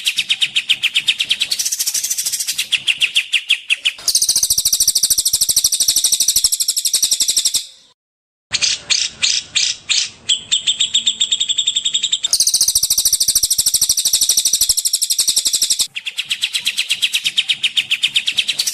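Songbird calling in long runs of fast repeated high chirps, with a brief silent break about eight seconds in. This is a masteran recording, birdsong played to teach caged songbirds.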